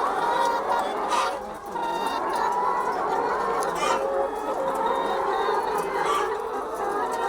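A flock of chickens clucking and squawking, many birds calling at once without a break, as a flock does when stirred up by an unusual disturbance.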